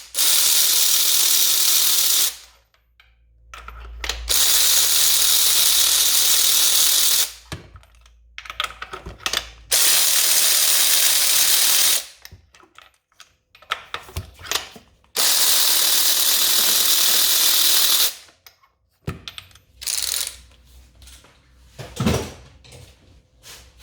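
Power ratchet running in four bursts of two to three seconds each, with a shorter one near the end, as it unscrews the spark plugs from a Toyota 2AZ engine. Between bursts there are small clicks of tool and metal handling.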